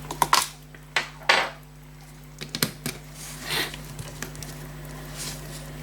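Small metal clicks and taps of watchmaker's tools against pocket watch parts during reassembly, a few sharp ones with short swishes between them.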